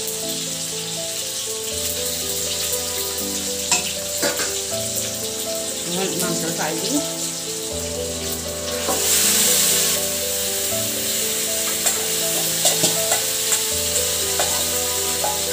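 Sliced onions and tomato frying in hot oil in an iron kadai: a steady sizzle with the clicks and scrapes of stirring. The sizzle swells loudest about nine seconds in. Background music plays under it.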